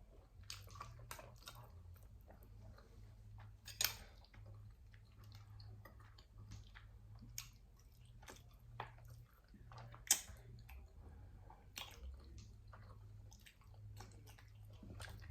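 Close-up eating sounds: chewing and mouth smacks while eating barbecued spare ribs and macaroni and cheese, with scattered short clicks, two sharper smacks about 4 and 10 seconds in, over a low steady hum.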